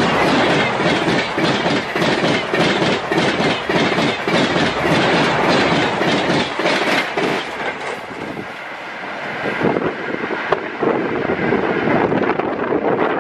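Passenger coaches of an express train rushing past at high speed, the wheels beating a rapid, even clickety-clack over the rail joints. About eight seconds in the rush fades as the last coach passes and the train draws away.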